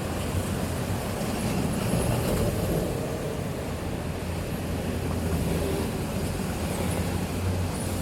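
City street traffic ambience: a steady low rumble of vehicles passing, with engine drone underneath.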